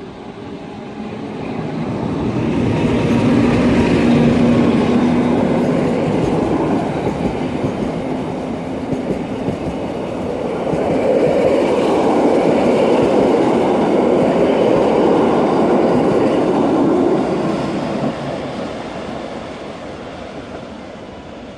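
Rhaetian Railway metre-gauge electric locomotive and its passenger coaches passing close by: steady wheel-on-rail rumble, swelling as the locomotive and then the coaches go by, fading away near the end as the train pulls off.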